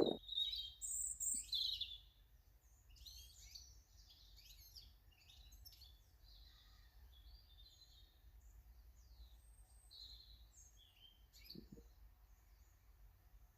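Small garden birds chirping: several short, high calls, loudest in the first two seconds, then a busy run of fainter chirps, over a steady low rumble.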